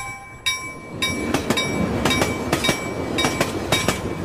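Train passing close by, its wheels clattering over the rail joints in sharp, irregular clicks, about three a second, starting about half a second in.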